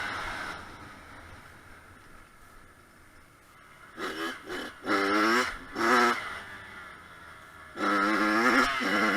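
Kawasaki KX100 single-cylinder two-stroke dirt bike engine revving on the track: it fades away at first, comes back with a few short blips of throttle about four seconds in, then holds loud high revs near the end.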